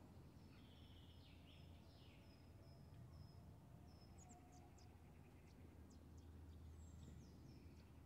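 Faint, quiet park ambience: scattered distant bird calls and short high chirps over a low, steady background rumble.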